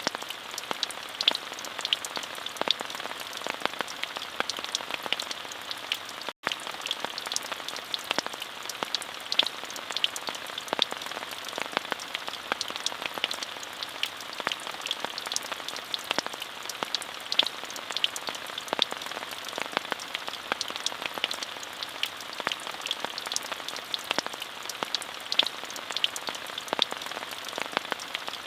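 Steady rainfall: an even hiss dotted with many small, sharp drop ticks. The sound cuts out for a split second about six seconds in.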